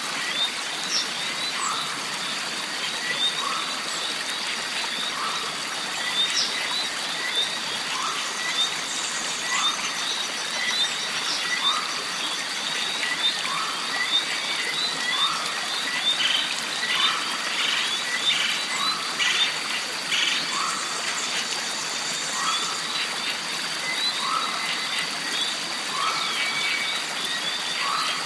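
Jungle stream ambience: a steady rush of flowing water under a high, unbroken tone. A short animal call repeats about every second and a quarter, among scattered quick chirps.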